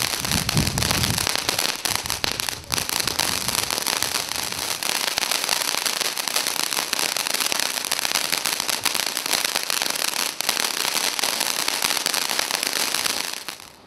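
Ground firework fountain spraying sparks: a loud continuous hiss thick with fine crackling, which cuts off near the end.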